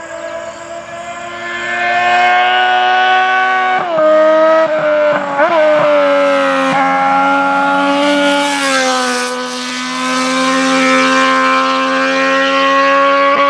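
Yamaha MT-09's three-cylinder engine through a straight-pipe exhaust with no muffler, running at steady revs under way. It gets louder about two seconds in, and its pitch drops twice, near four and nine seconds in.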